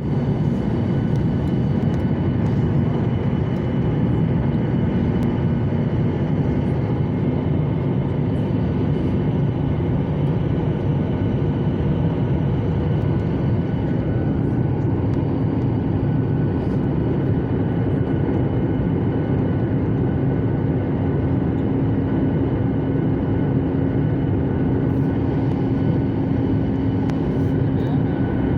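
Airliner cabin noise heard from inside at a window seat: a steady rush of air and engine noise with a constant hum running through it.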